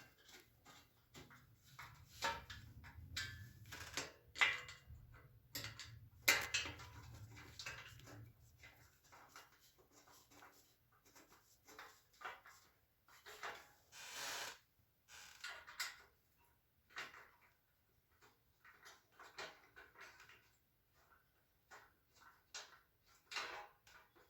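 Screws being tightened by hand with a Phillips screwdriver into a metal shelf frame: irregular small clicks, taps and scrapes of the driver and metal parts, with a low rumble in the first several seconds.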